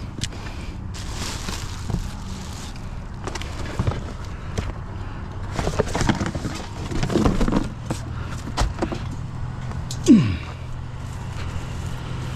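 A vehicle engine idling steadily, under scattered knocks and clatter of scrap items being handled, busiest a little past halfway, with a short falling squeal about ten seconds in.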